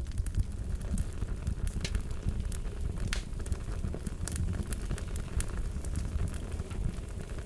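Fire crackling, with many irregular sharp pops and snaps over a steady low rumble of burning.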